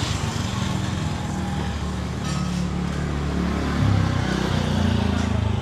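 A motor vehicle engine running close by, a steady low hum that shifts in pitch and gets a little louder about four seconds in.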